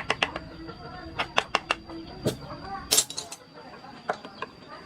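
Carving chisel struck with a mallet: quick runs of sharp taps, with one louder crack about three seconds in.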